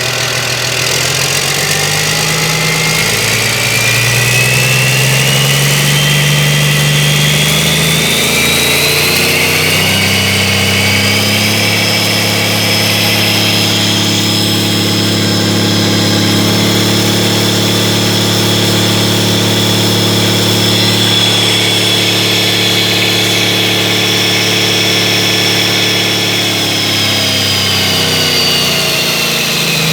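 Caterpillar 3176C inline-six diesel engine revving slowly up from idle over about ten seconds, holding at high speed, then dropping back toward idle near the end. A high whine rises and falls with the engine speed.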